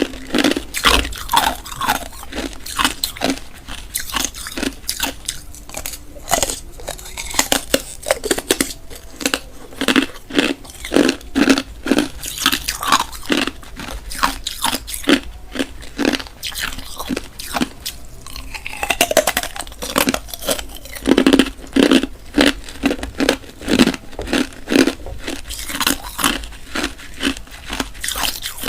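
A person biting and chewing hard, clear ice cubes, close to the microphone: sharp, repeated crunches in quick succession.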